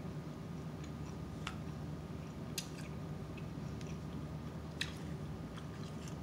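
Chewing a flaky, hard roasted water scorpion wing: a few sharp, crisp crackles at scattered moments over a steady low hum.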